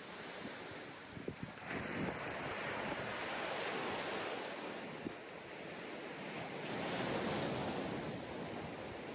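Ocean surf breaking and washing up the beach, swelling twice: from about two seconds in, then again around seven seconds. A few low bumps of wind hit the microphone just over a second in.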